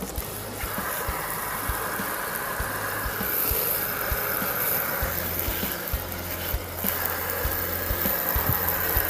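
An engine running steadily at idle, with irregular low knocks over a continuous hiss like spraying water.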